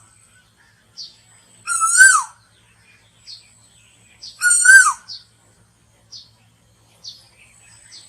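Asian koel calling: two loud half-second calls about two and a half seconds apart, each a clear whistled note that rises slightly then drops at the end, with short high chirps in between.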